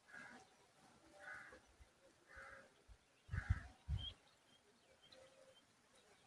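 A bird calling harshly, short calls repeated about once a second, with two low thumps about halfway through and a few faint high peeps.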